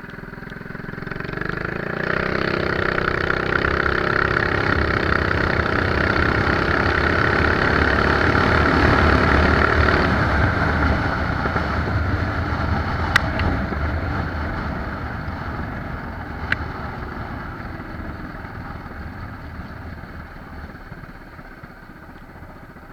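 Mini bike's small engine pulling at full throttle for about ten seconds, then the throttle is let off and the engine winds down while the bike coasts. Wind and rolling noise fade over the second half, with two sharp clicks during the coast.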